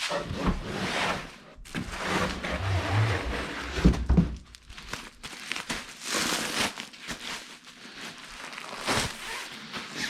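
Rustling and crinkling of packaging as parts are unwrapped and handled, with a few low knocks about four seconds in.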